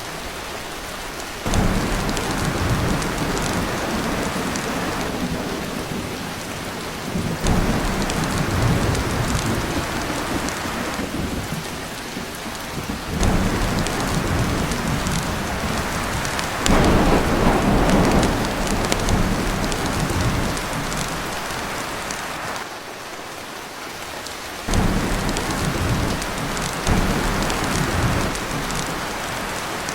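Heavy rain drumming steadily on a tin roof, with thunder rolling in several times, each roll swelling suddenly and fading over a few seconds.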